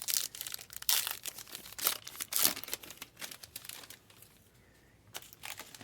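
Trading card pack wrappers being torn open and crinkled, a run of short, irregular crackles with a lull of about a second around four seconds in.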